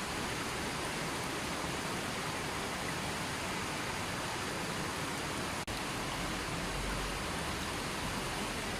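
River water flowing and rushing steadily. There is a momentary dip in level a little over halfway through.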